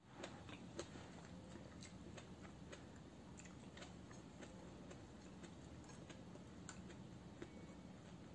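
Faint eating sounds: scattered small clicks and smacks of chewing while fried dried salted fish (tuyo) and rice are eaten by hand, with fingers working the rice on the plate.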